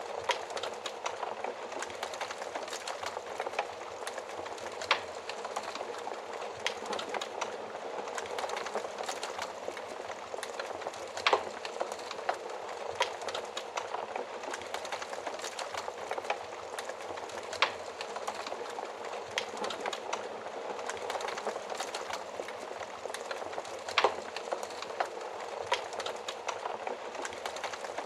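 Wood fire crackling steadily: a dense hiss of small crackles, with a sharper, louder pop every five or six seconds.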